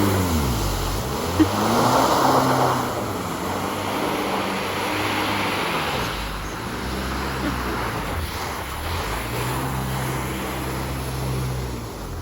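A car engine running. Its pitch drops and rises again in the first couple of seconds, then holds fairly steady.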